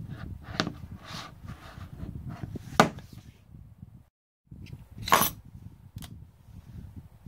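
Wooden workpieces being handled and knocked together, several sharp wooden knocks and clacks, the loudest about three seconds in and another about five seconds in.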